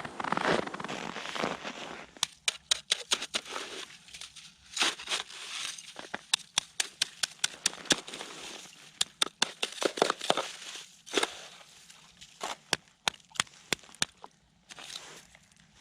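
Ice and snow crunching and crackling: a dense scraping crunch for the first couple of seconds, then a long run of sharp, irregular cracks.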